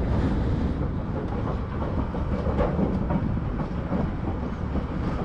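Passenger train heard from aboard an open-air car while rolling along the track: a steady low rumble of wheels on rails with light clatter.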